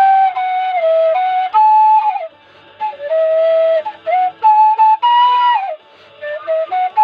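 Low D whistle playing a melody of held notes, some sliding into the next, with a few short breaks between phrases.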